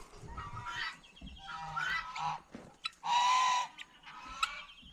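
Farmyard poultry calling, with one long, loud honk about three seconds in and shorter calls and chirps around it.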